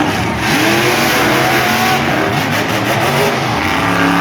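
Monster truck engines revving loudly, the pitch rising and falling as the throttle is worked.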